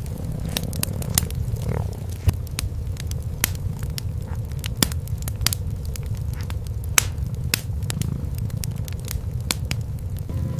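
Wood fire in a fireplace crackling, with many sharp pops; the loudest come about two seconds in and again about seven seconds in. Under it runs the steady low rumble of cats purring.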